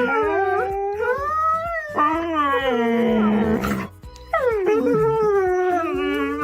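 Dog howling in long, drawn-out calls that slide up and down in pitch, breaking off briefly about four seconds in, over background music with a steady beat.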